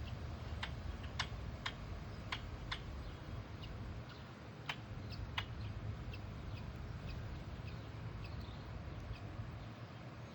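A beakless bird drinking water: a string of irregular sharp clicks, the loudest in the first few seconds and again around the middle, with faint short high peeps in between.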